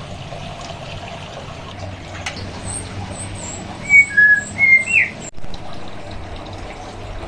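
White-rumped shama whistling a few short, clear notes about halfway through, the last one rising, with a run of thin high chips above them. Underneath is a steady rushing hiss of running water.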